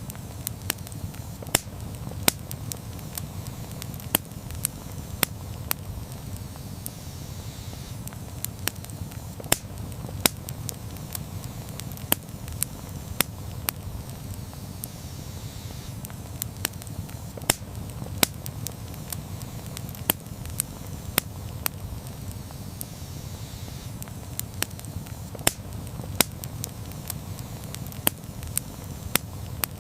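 Wood campfire burning: sharp crackles and pops at irregular intervals, several a second at times, over a steady low rush of the flames.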